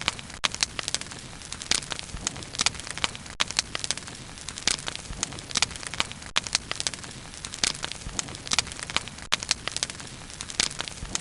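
Wood fire crackling steadily, with frequent irregular sharp pops and snaps over a soft hiss of burning.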